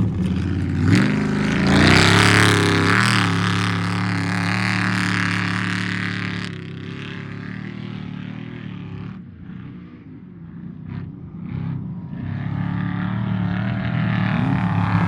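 Off-road race vehicle engines: one accelerates hard with rising pitch, then fades away about six seconds in, and another approaches, getting louder toward the end.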